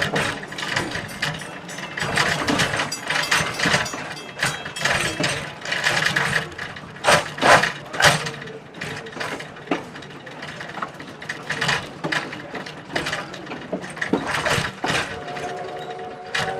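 Heritage train rolling slowly along the track with irregular clanks and rattles from its wheels, couplers and running gear. Near the end, the train's whistle or horn starts sounding a held chord.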